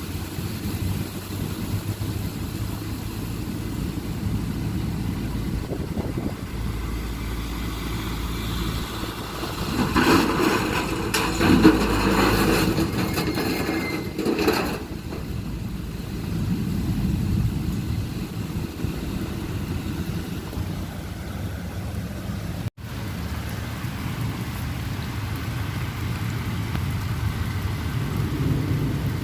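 Heavy rain pouring down steadily, with a low rumble underneath; a louder rush swells for a few seconds about ten seconds in.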